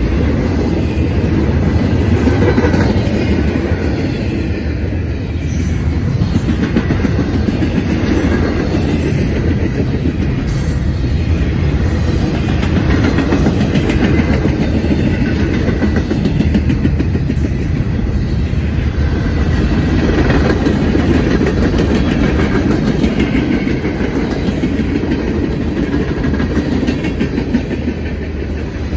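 Norfolk Southern freight train's cars rolling past close by: double-stack intermodal well cars, then boxcars and a covered hopper, their steel wheels running loud and steady on the rails.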